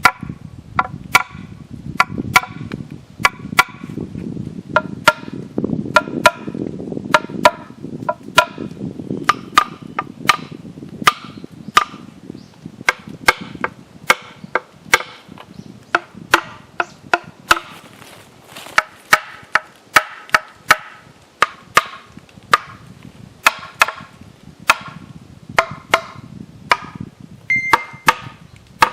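Hammer striking shiitake-inoculated hardwood logs, a steady series of sharp knocks, about one or two a second, each with a short hollow wooden ring. The logs are being struck after soaking rain to shock them into fruiting.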